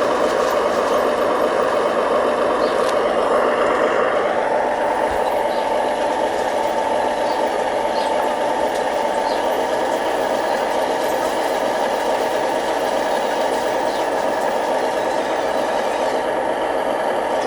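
Radio-controlled construction models running with a steady motor-and-gear whine, which rises in pitch about four seconds in and then holds.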